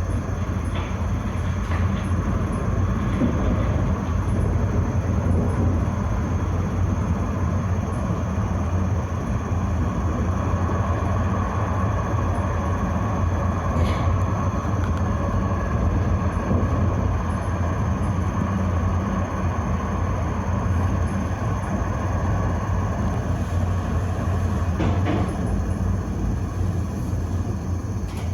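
Tram running along its line, heard from on board: a steady rumble of wheels on rails with a running hum. There are a couple of short sharp clicks, one about halfway through and one near the end.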